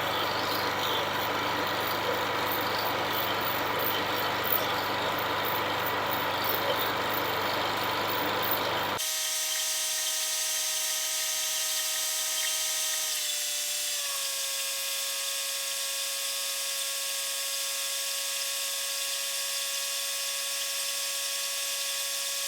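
Well-drilling rig running steadily. About nine seconds in, the sound changes abruptly to a steady engine whine made of several tones, which drops slightly in pitch a few seconds later.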